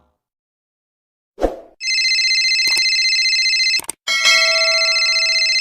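Electronic telephone ringing sound effect: after a short falling blip, two stretches of steady ringing tone of about two seconds each, the second starting about four seconds in at a different pitch.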